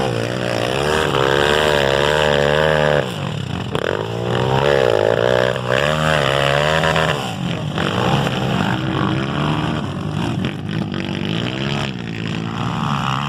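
Trail motorcycle engines revving hard, their pitch repeatedly rising and falling, with a sudden drop in the engine note about three seconds in.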